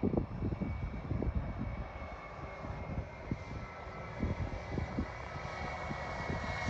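Airliner engines running, a steady high whine that grows louder toward the end, with gusty low rumbling from wind on the phone's microphone.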